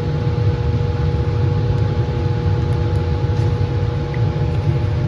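Laminar flow hood's blower fan running steadily: a deep, even rush of air with two faint steady hums riding above it.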